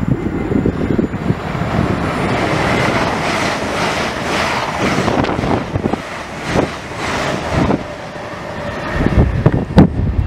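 LNER electric passenger train running through the station at speed: a loud rush of wheels and air with irregular beats as the coaches pass, easing off about eight seconds in. Heavy low thumps follow near the end.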